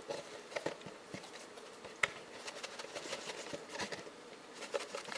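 Faint, irregular light rustling and small clicks of chopped twine pieces being tumbled in a small plastic dish, as a plastic tree armature coated with Hob-e-Tac tacky glue is shaken and turned through them to pick up the fibres.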